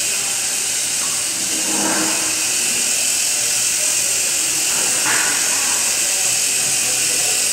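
Mini-tractor's small engine running steadily under power, a loud continuous hiss-like drone with a high whine on top.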